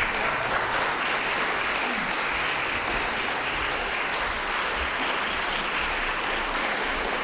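Audience applause, breaking out suddenly and holding steady.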